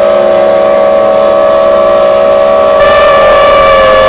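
Two-stroke racing outboard motors running flat out, a loud, steady high-pitched whine. The sound turns brighter and harsher about three seconds in, and the pitch sags slightly near the end.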